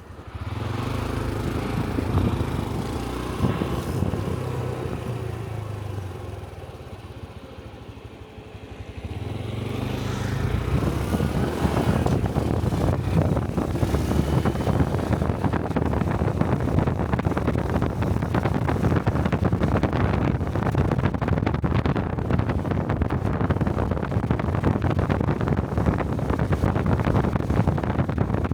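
Honda Cub 125 cc single-cylinder motorcycle engine running on the road, heard from the rider's helmet. It goes quieter for a few seconds about a third of the way in, then picks up again and runs steadily with wind buffeting the microphone.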